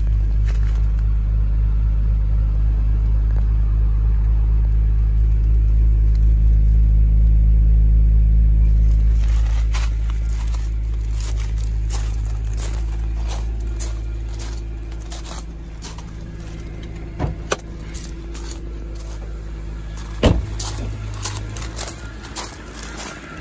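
A BMW E46 M3's 3.2-litre straight-six engine idles steadily shortly after a cold start, heard through its quad exhaust. After about nine seconds the engine sound grows gradually quieter, and a few sharp clicks come near the end.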